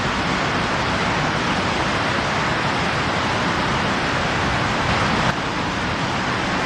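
A steady rushing noise with no distinct events, shifting slightly about five seconds in.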